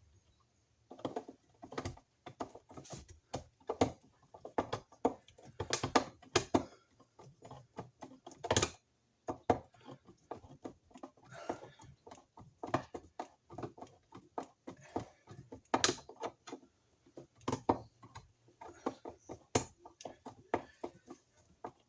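Irregular knocks, taps and clicks of hands working with tools and electrical parts during wiring work, some sharper and louder than others.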